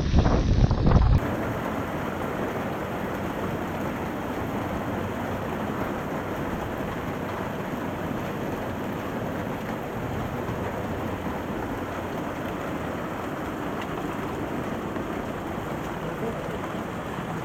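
Wind buffeting the microphone of a moving motorcycle for about a second, then a sudden change to a steady hiss of monsoon rain.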